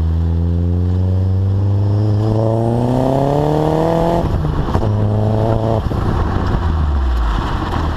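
VW Passat 1.8T turbocharged four-cylinder exhaust, through a 3-inch test pipe, Magnaflow glass pack and Borla Pro XS muffler, under acceleration: the note climbs steadily for about four seconds, then drops off abruptly, runs steady at a lower pitch, and steps down again near the end.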